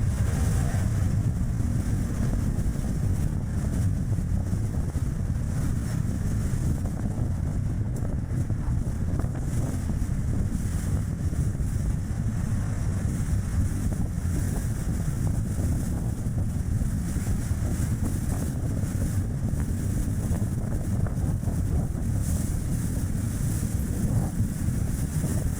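Steady road and tyre noise from a Chevrolet Spark city car driving, with strong gusty wind buffeting the microphone.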